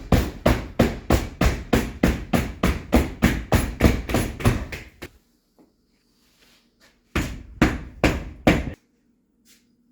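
Rapid, even blows of about three a second pounding the windshield glass down into its rubber gasket, stopping about five seconds in, then a short run of four more blows before it goes quiet.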